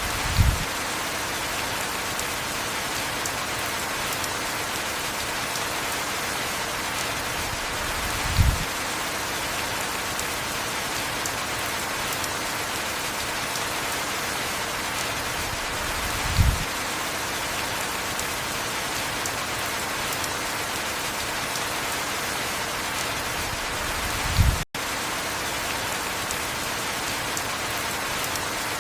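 Steady heavy rainfall, an even hiss of rain. A short low thump comes every eight seconds, four times, and the sound cuts out for an instant just after the last thump.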